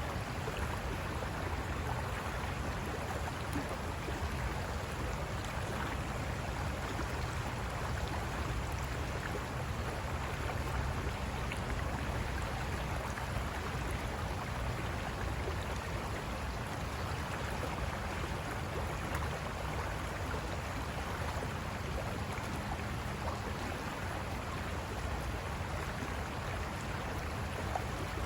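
River water rushing and splashing over rocks, a steady unbroken noise with a low rumble underneath.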